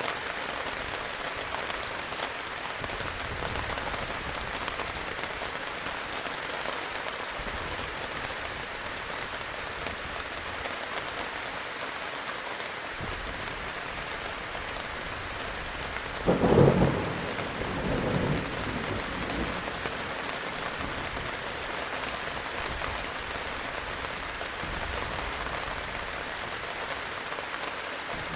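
Heavy rain falling steadily. A thunderclap breaks in about halfway through and is the loudest sound, rumbling again a moment later and then dying away. Fainter distant rumbles come earlier.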